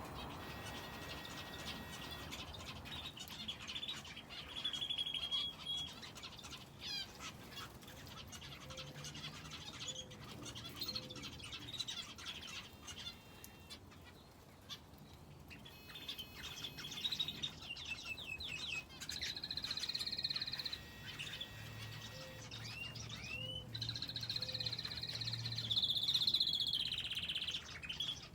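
Aviary finches and a canary chirping and calling: many short, rising chirps overlapping, with longer steady trilled phrases about two-thirds of the way through and again near the end.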